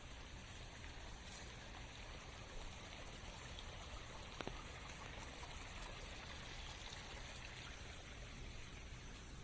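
Rain falling in a forest: a steady, faint hiss of water with a few sharp drip-like ticks, one a little over four seconds in.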